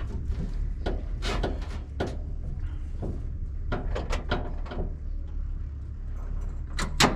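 Starter on a long-stored Ford F700 dump truck's engine being bumped while the engine stays stuck and does not turn over: a series of sharp clicks and clunks, with a steady low hum underneath.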